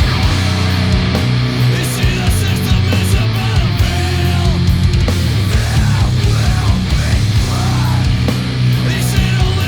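Heavy metal / punk band playing loudly: distorted electric guitars, bass and drums.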